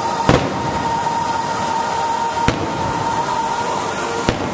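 Aerial fireworks shells bursting: three sharp booms, the loudest about a quarter second in, then one about two and a half seconds in and another near the end, over a steady background noise.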